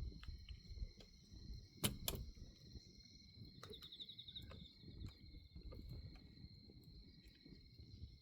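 Bonfire crackling with scattered sharp pops, the loudest two about two seconds in, over a low rumble. Crickets trill steadily behind it.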